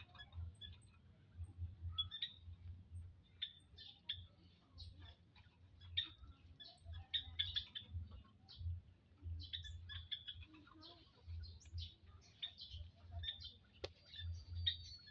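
Quail chirping: many short, high chirps in quick, irregular succession, with a single click near the end.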